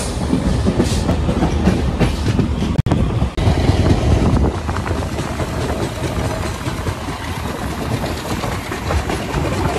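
Tejas Express running along the track, heard from on board: a steady rumble with wheels clattering over the rails. The sound drops out very briefly a little under three seconds in.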